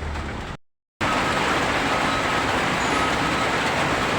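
Steady road noise of truck traffic, an even rushing sound, broken by a brief cut to silence about half a second in; before the cut a low engine drone is heard.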